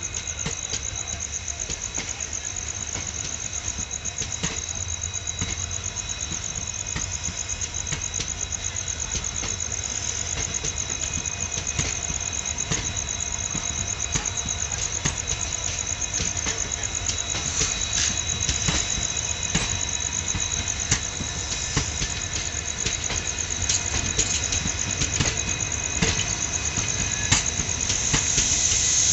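Passenger train running on the track: a steady rumble with many sharp, irregular clicks and rattles, growing louder near the end, where a high hiss comes in.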